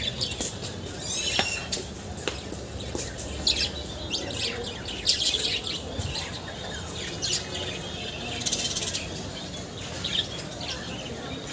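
A crowd of small caged birds chirping and calling over one another, with many short high chirps, a buzzy trill about eight seconds in, and wings fluttering now and then.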